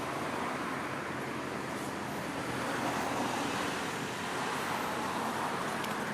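Steady rushing background noise with no distinct events, of the kind heard from road traffic outdoors.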